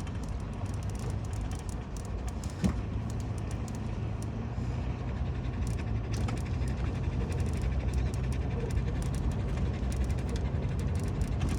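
A vehicle driving, a steady low rumble heard from inside the cabin. A single click comes a little over two and a half seconds in, and after it a steady low hum joins the rumble.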